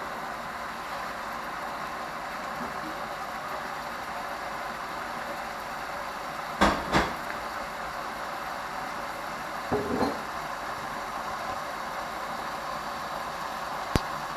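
Food sizzling and steaming under the glass lid of a Geepas electric skillet, a steady hiss. Two sharp knocks come about seven seconds in, a softer bump around ten seconds, and a click near the end.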